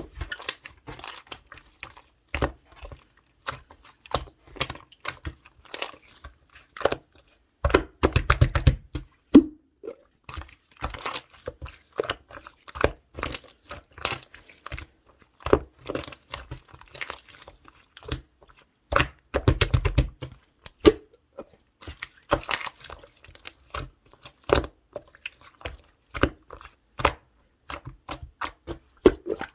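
Clear slime being squished and pressed by hand, with sticky clicks and crackling pops of trapped air. Two longer runs of rapid crackling come about eight seconds in and again near the middle.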